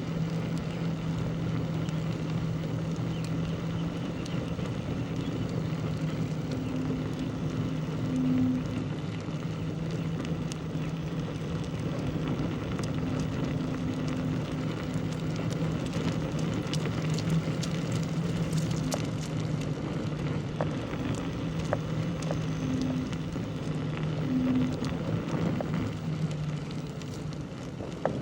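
A motor running steadily with a constant low drone, with scattered light clicks and ticks over it.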